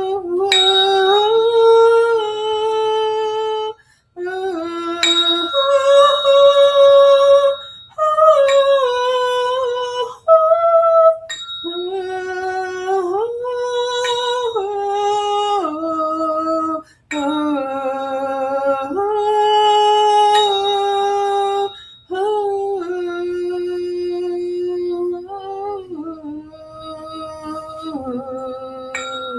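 A woman's voice toning a long sung 'ooh' vowel, the vowel sound for the sacral chakra. She holds a series of notes that step up and down in pitch, pausing briefly for breath about every four to five seconds.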